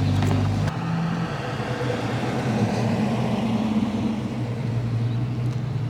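Car engines running at low speed as cars roll past, a steady low rumble; one engine's note drops away about a second in while another carries on.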